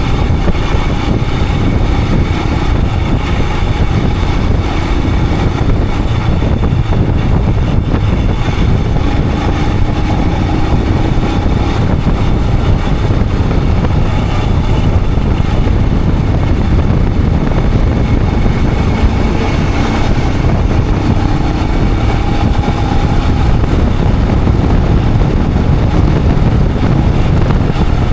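Royal Enfield Himalayan 411's single-cylinder engine running steadily on the move, mixed with heavy wind rush over the action camera's microphone.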